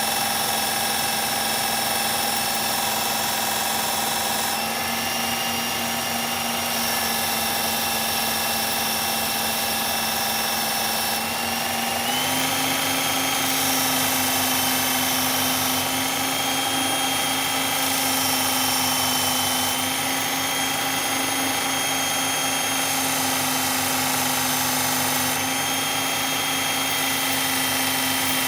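Work Sharp electric belt knife sharpener's motor running steadily with the medium-grit belt fitted, a constant whir. Its pitch steps up slightly about twelve seconds in.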